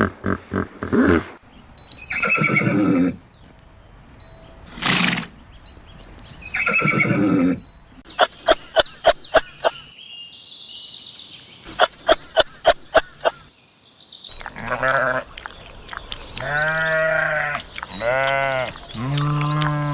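Farm animals calling one after another, with a run of rapid sharp clicks in the middle and three long, low calls near the end that rise and fall in pitch.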